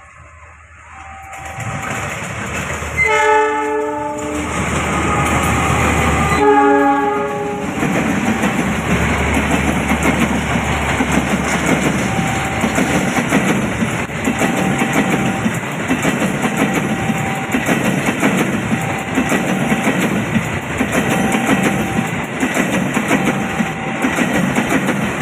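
A locomotive sounds its horn in two short blasts, and then a train passes close by with a steady rumble and wheels clattering over the rails. A short tone repeats about every second and a half underneath.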